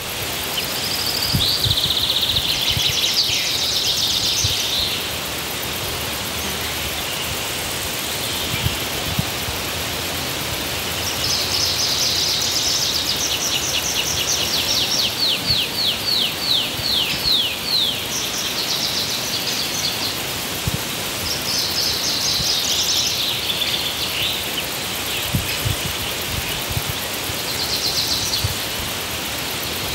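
Songbirds singing in short phrases every few seconds, one of them a fast trill of rapid repeated notes lasting several seconds, over a steady hiss of outdoor background noise.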